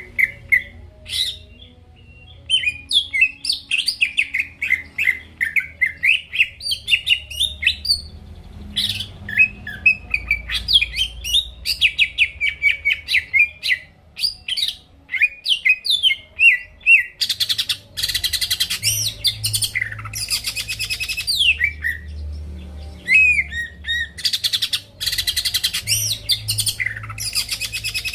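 Green leafbird (cucak ijo) in full, nonstop song: a fast, varied run of chirps and whistles, turning from a little past halfway into harsher buzzing, rattling phrases with downward-sliding notes.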